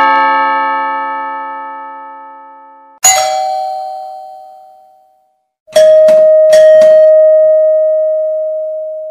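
Doorbell chimes sounding one after another, each ringing out and fading. A chime carried over from just before fades over the first three seconds. A new chime sounds at about three seconds, and near six seconds a third is struck three times quickly and rings out slowly.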